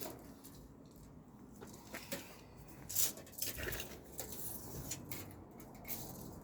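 Faint handling noise from a tape measure being used in a van's cargo bay: scattered clicks and rustles, with a sharper click about three seconds in.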